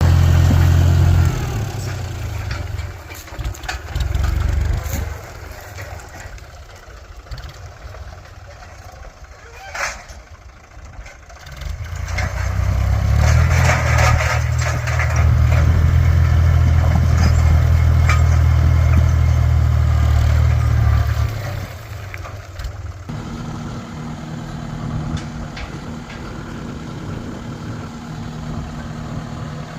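Tractor engine running while working a stone-gathering attachment, getting much louder for several seconds from about twelve seconds in, then dropping back and settling to a steadier hum. Scattered knocks and clicks sound over the engine.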